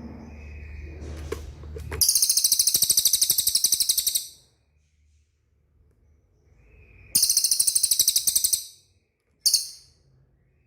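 Cililin bird calling: a loud, high, rapid trill of about ten notes a second. The trill lasts about two seconds and comes again some five seconds later, followed by a short burst near the end.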